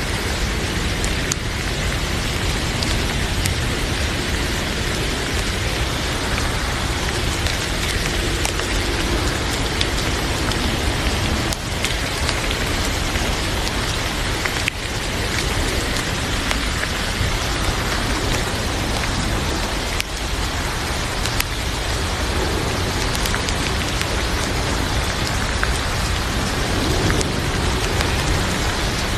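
Heavy rain falling steadily, with a few sharp crackles from a wood fire in a fireplace scattered through it.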